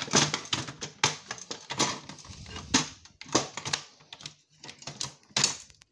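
Irregular clattering and knocking of plastic and metal parts as a piece of e-waste is handled and pried at, with several louder sharp knocks.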